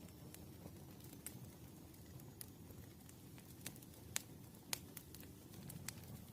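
Campfire burning, with irregular sharp crackles and pops over a low steady rumble; the two loudest pops come a little past the middle.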